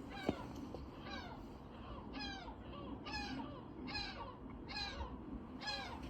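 A bird calling over and over in the background, a steady series of short falling caw-like calls, one every half second to a second. A single sharp click sounds near the start.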